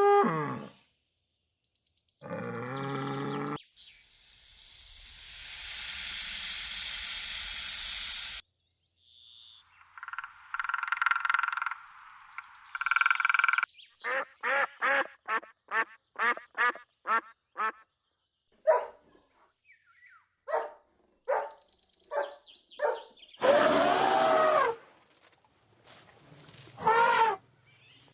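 A series of different recorded animal calls one after another with short gaps: a brief pitched call, a long hiss lasting about four seconds, a buzzy droning call, then a quick run of short calls about two to three a second, and a louder drawn-out call near the end.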